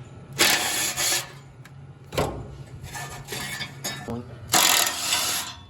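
Four or five loud bursts of harsh, scraping or hissing tool noise, each up to about a second long, from work on the exhaust system, over a steady low hum.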